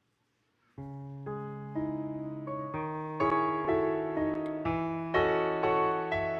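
A keyboard starts playing a slow hymn introduction a little under a second in: chords under a melody, with a new note about every half second, growing louder about three seconds in.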